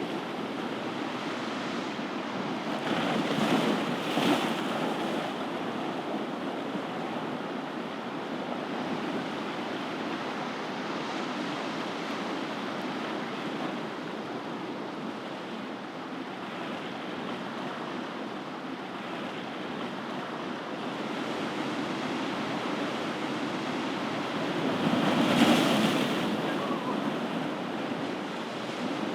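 Ocean surf: a steady wash of waves, swelling as a wave breaks about three to four seconds in and again loudest near the end.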